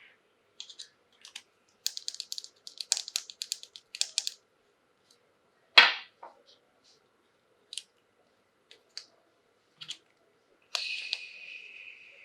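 Small plastic toys and packaging being handled: a flurry of light clicks and crackles, one sharp snap about six seconds in, scattered ticks, and a short rasping scrape near the end.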